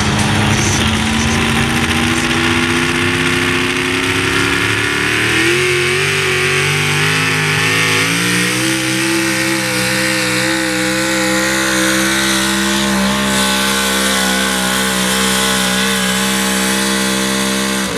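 Pickup truck engine at wide-open throttle hauling a truck-pull sled. Its revs climb, step up twice around five and eight seconds in, then hold high and steady before ending abruptly.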